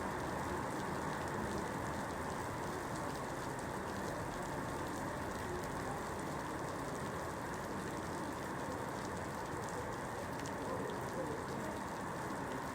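Steady rain falling on a surface, an even patter with scattered light drop ticks.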